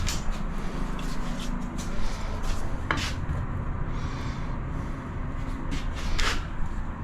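Scattered light clicks, knocks and short scrapes of hand work on tiles at a shower shelf, over a steady low hum.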